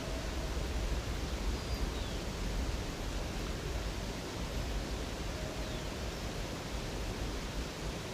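Steady rush of flowing river water, an even unbroken noise with a deep low end.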